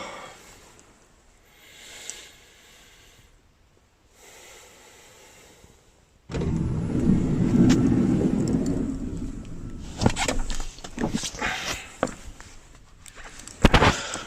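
Mechanical sounds from a parked minivan: a low rumble starts suddenly about six seconds in and fades over a few seconds, followed by a string of knocks and clicks.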